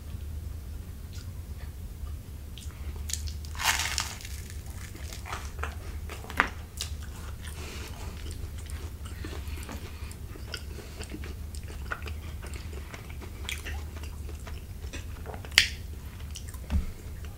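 Close-miked mouth sounds of chewing and biting toasted garlic cheese bread and creamy fettuccine, with a longer crunch about four seconds in. Two sharp clicks, the loudest sounds, come a few seconds in and again near the end, the metal utensil knocking the plate.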